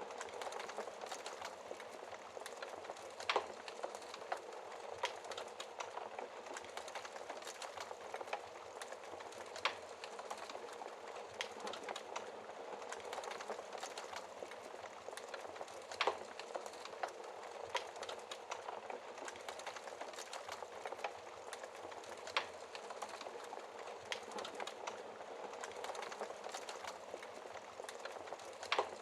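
Wood fire crackling in a fireplace: a steady hiss of small crackles, with a sharper pop about every six seconds.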